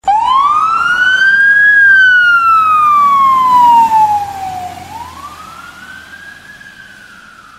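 Fire engine siren wailing: a quick rise in pitch, a slow fall, then a second rise and fall. It is loud at first and gets much fainter about four seconds in.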